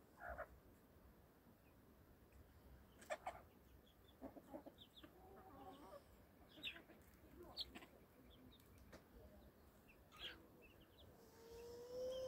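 Faint, scattered bird calls and short clucks, with one longer drawn-out call starting near the end.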